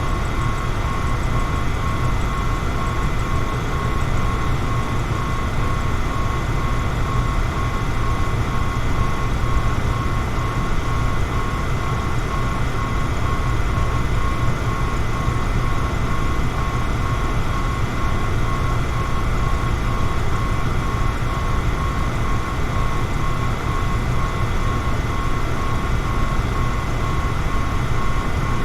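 Electric fan running steadily: an even rushing noise, heaviest in the low end, with a faint steady high tone over it.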